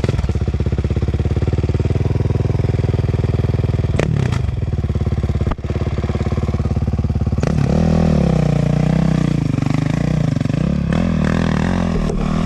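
Sherco 300 two-stroke enduro motorcycle engine, close up, running at steady revs for several seconds, then its revs rising and falling as the bike rides over rough ground. Two sharp knocks come about four and five and a half seconds in.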